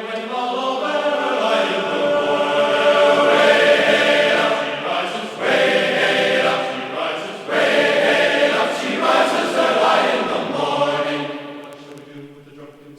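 Background music of a choir of voices singing a chant-like song without instruments. It fades down near the end.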